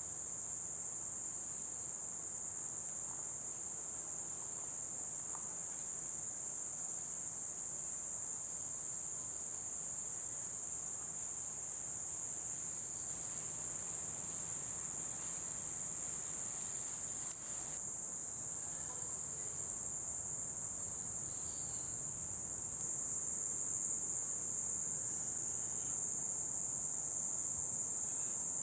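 Insect chorus: a steady, high-pitched buzzing drone that goes on without a break, with one brief click a little past halfway.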